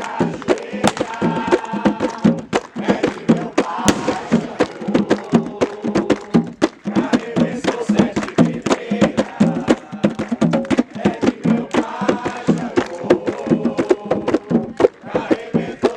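Afro-Brazilian ritual drumming, with quick, steady hand-drum strokes, under a group of voices chanting.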